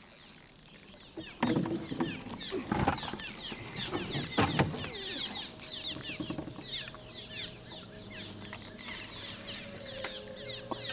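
Birds chirping in a dense chorus of quick, high, downward-sliding calls, with a few louder, lower calls in the first half.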